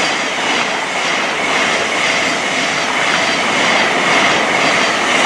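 Thameslink Class 700 electric multiple unit running through the platform at speed close by: a steady rush of wheels on rail, with a faint high steady whine over it.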